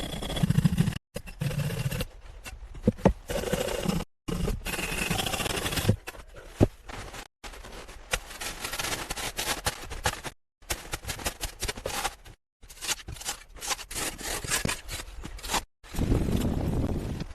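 A string of short work-sound clips cut together, each broken off by a sudden silence: scraping and rustling with scattered sharp knocks, typical of hand work on wood and earth.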